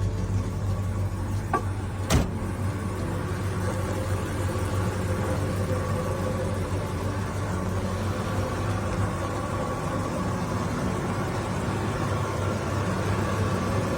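Car engine idling steadily with a low, even hum, and a sharp knock about two seconds in.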